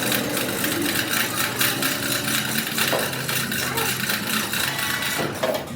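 A rapid run of clicks and metallic clatter, with indistinct voices under it.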